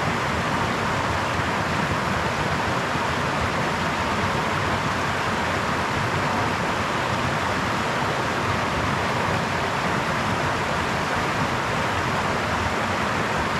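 Brook water running steadily over stones, an even rushing and babbling with no breaks.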